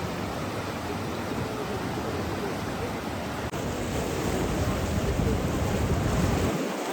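Steady rushing of flowing water, a constant hiss. About three and a half seconds in it turns into a louder, deeper rush with a low rumble, which cuts off suddenly near the end.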